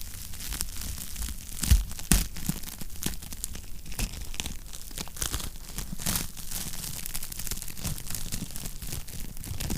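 Wood fire crackling in a fireplace: a steady low hiss with scattered sharp pops and snaps, the two loudest close together about two seconds in.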